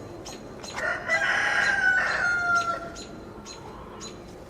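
A rooster crows once, a call of about two seconds that starts about a second in and ends on a slightly falling note. Young chicks peep in short, high notes about twice a second throughout.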